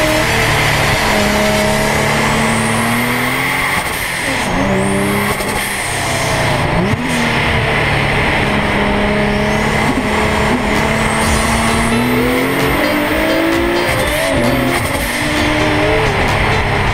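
A 2010 Nissan 370Z's twin-turbocharged 3.7-litre V6 pulling hard, its note rising and falling as it accelerates and backs off a few times, over heavy road and wind noise. A steady high whine runs through it, which the owner believes comes from the oil cooler.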